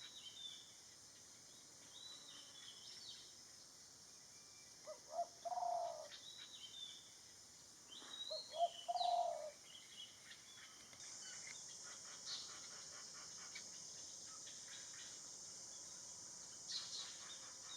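Garden birds calling: two short series of low hooting, cooing notes a few seconds apart, with scattered higher chirps from small birds. A steady high insect hiss grows louder about halfway through.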